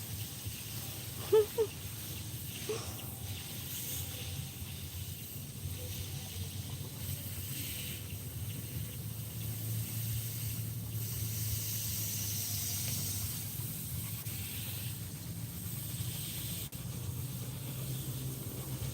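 Steady background hiss with a low hum underneath, and one brief pitched sound about a second and a half in.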